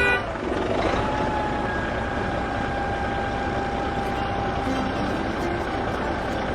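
Vehicle engine sound running steadily with a low rumble and a faint steady whine. A loud, steady multi-tone sound cuts off at the very start.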